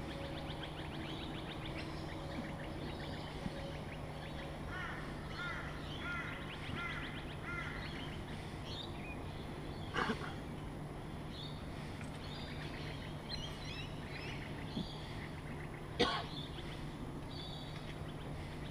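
Birds chirping and calling over a hushed outdoor crowd, with a steady low hum underneath. Two sharp clicks stand out, about ten and sixteen seconds in.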